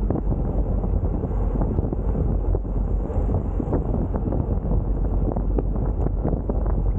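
Wind buffeting the camera microphone while cycling, a steady low rumble with faint ticks and rattles running through it.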